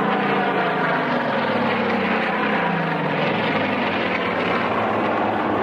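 Propeller aircraft engine droning steadily and loudly, its low pitch drifting slightly as the aircraft moves.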